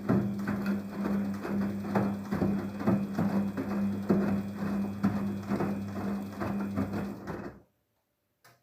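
Daewoo DWD-FT1013 washing machine on its hand-wash cycle: the motor hums steadily while the wash action churns the load with quick repeated knocks and sloshes. The motor stops suddenly near the end, and a single click follows.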